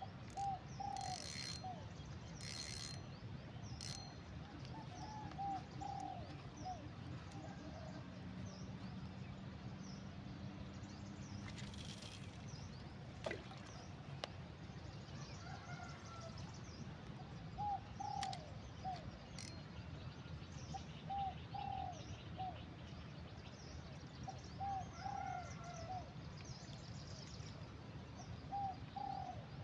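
A dove cooing in short phrases of three or four quick notes, repeated every few seconds, over a steady low rumble of outdoor background noise.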